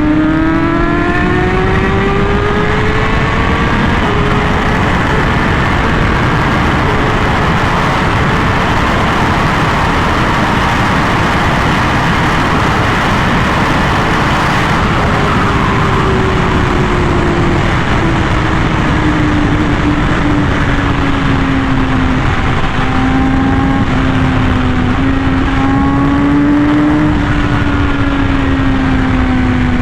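Honda Fireblade RR-R SP's inline-four with an SC Project exhaust at high revs: the engine note climbs for the first few seconds, then holds under a heavy rush of wind noise, and past the halfway point the revs ease slowly down and settle.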